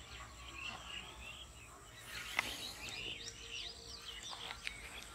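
Small birds chirping and twittering in quick, varied notes, with a few sharp clicks among them, the loudest about two and a half seconds in.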